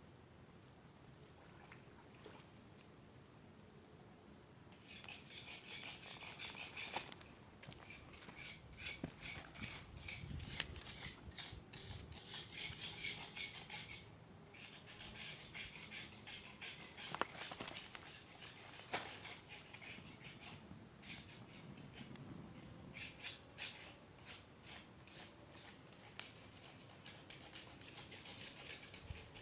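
Dry tinder and wood being handled for a fire: bursts of crackly rustling and scraping that start about five seconds in and come in several spells with short pauses.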